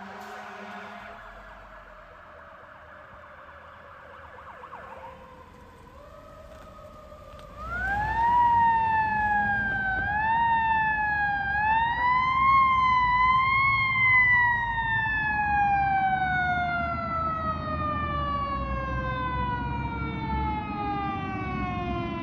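Fire truck siren: a fading siren falls in pitch, then about halfway in a loud siren winds up, is pushed up again three or four times, and slides slowly down in pitch to the end. A low vehicle rumble runs underneath.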